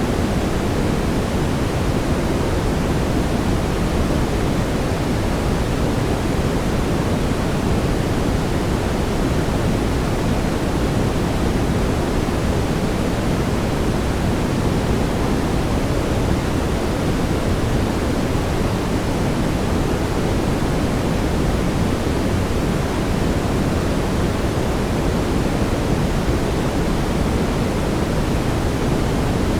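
Steady brown noise: an even, deep hiss weighted toward the low end, with no change or events.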